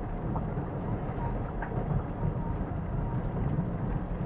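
Car driving along an unpaved forest road, heard from inside the cabin on a dashcam: a steady low rumble of engine and tyres, with a couple of light knocks from the road surface.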